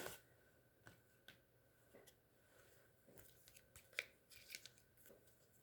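Faint clicks and short plastic rustles of trading cards in penny sleeves and rigid card protectors being handled and swapped, with a cluster of taps between about three and five seconds in, the sharpest about four seconds in.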